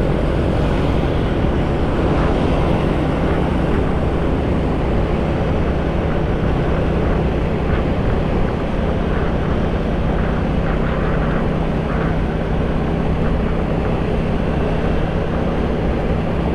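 Motorcycle riding at a steady speed: the engine runs with an even drone, and wind noise on the action camera's microphone is heavy underneath.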